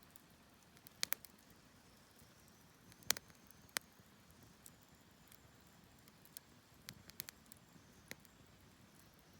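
Wood fire crackling, with irregular sharp pops and snaps from the burning wood. The loudest come about a second in and a couple near three to four seconds, with smaller ones later.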